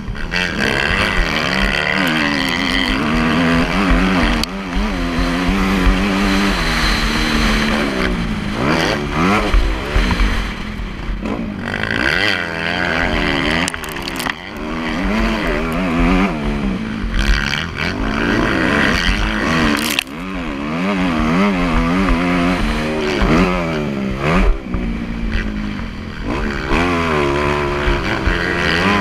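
Motocross bike engine being ridden hard. It revs up and falls back over and over, its pitch climbing and dropping with the throttle and the gear changes.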